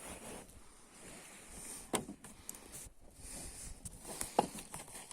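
Wooden tent poles being handled, knocking sharply twice with a few lighter clicks in between, over a faint steady high hiss.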